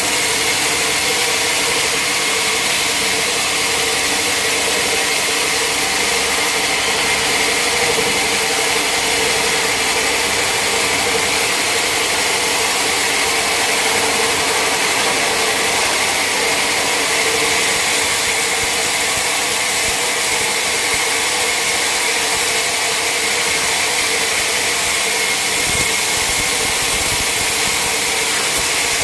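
Sawmill machinery running steadily: a constant motor drone with a steady high whine over it, unchanging throughout.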